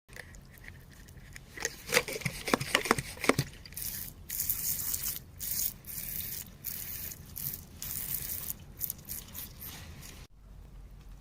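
Scraping and rubbing of digging in soil and stone, with several sharp clicks of stone about two to three seconds in, then repeated hissy scraping strokes.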